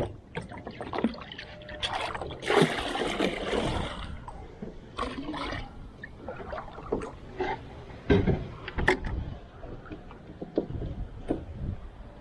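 A bait bucket being filled with river water from a canoe: water splashing and gurgling, with scattered knocks and bumps, the loudest about eight and nine seconds in.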